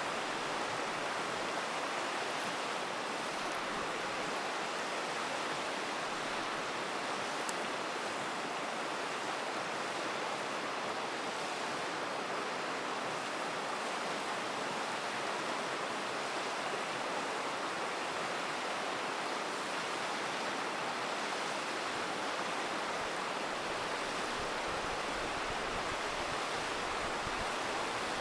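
A river rushing steadily, with a single faint crackle from the campfire about seven seconds in.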